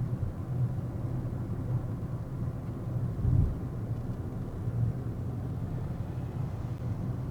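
Steady low rumble of a car being driven, engine and road noise as picked up by a dashboard camera inside the car, with one louder thump about three and a half seconds in.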